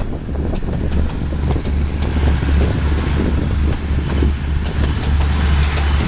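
Steady low vehicle rumble with wind buffeting the microphone, and scattered sharp clicks.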